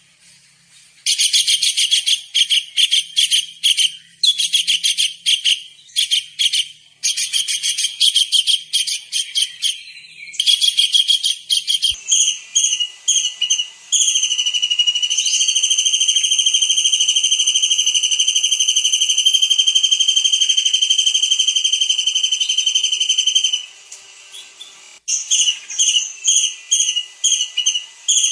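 Kingfisher calling: rapid trains of high, sharp piping notes, then about halfway through a single unbroken high whistle held for some nine seconds, then short piping notes again near the end.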